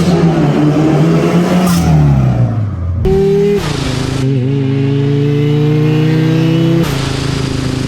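Supercharged 2-litre engine of a 1971 Datsun drift car revving up and down, then, after an abrupt change about three seconds in, pulling steadily with its pitch slowly rising.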